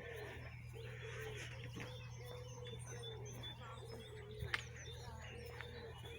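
Birds calling outdoors: a lower arched call repeated about twice a second, with small high chirps over it and a steady low hum underneath. There is one sharp click about four and a half seconds in.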